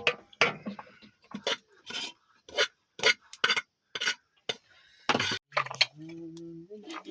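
Repeated short clinks and clatters of hard objects being handled, one after another. About six seconds in, a low steady tone is held for about a second.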